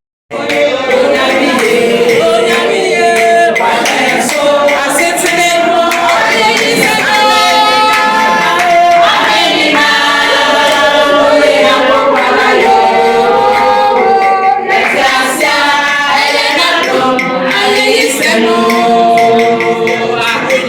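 A group of women singing together, choir-style, with long held notes.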